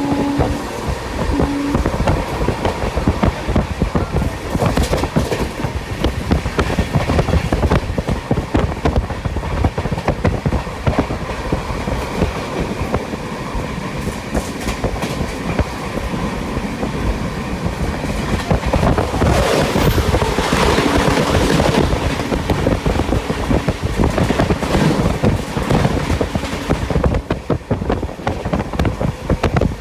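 Express train running at speed, heard from a coach window seat: wheels clattering rapidly over the rail joints over a steady rushing rumble. About twenty seconds in, a louder rush of noise swells for a couple of seconds.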